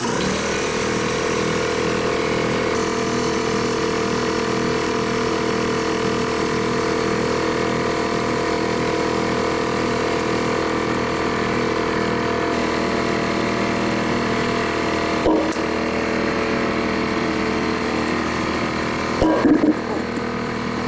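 Air compressor running steadily while it inflates a newly mounted tractor tire, with a couple of brief knocks near the end.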